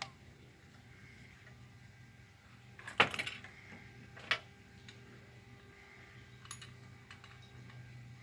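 A few sharp plastic-and-metal clicks and knocks from handling the Great Stuff foam can and its screw-on nozzle: one near the start, the loudest about three seconds in with a short rattle after it, then two more. A steady low hum runs underneath.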